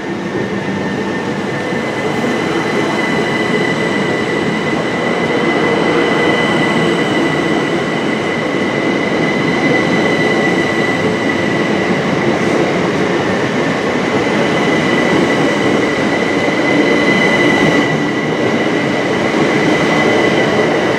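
Class 375 Electrostar electric multiple unit running slowly past along the platform: steady rumble of wheels and running gear with a continuous high whine on top.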